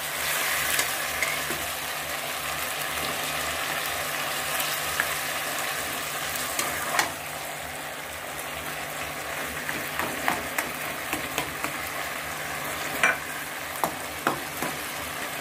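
Vegetables and fish head sizzling in a wok with a little water just added, stirred with a spatula. There are scattered scrapes and taps of the spatula against the pan, more of them in the second half.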